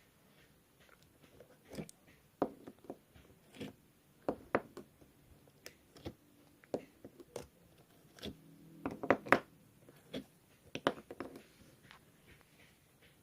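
Rainbow slime being pressed and squished by hand, making irregular small sticky pops and clicks, busiest around two to five seconds in and again around eight to eleven seconds.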